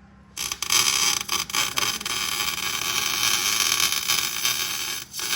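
Arc welding on a differential's gears, welding the diff into a spool: a steady crackling hiss that starts a moment in, breaks off briefly near the end, then resumes.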